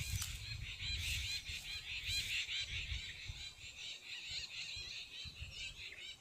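A dense chatter of many short, high bird calls repeating several times a second, over a faint low rumble.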